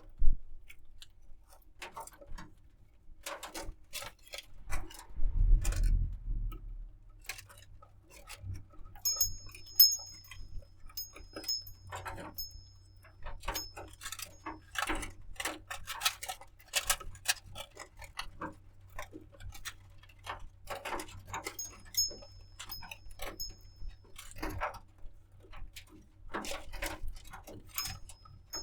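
Irregular small clicks and taps throughout, with brief high chirps from a budgerigar in two short runs, one about nine seconds in and one just past twenty seconds. A low thud comes about five seconds in.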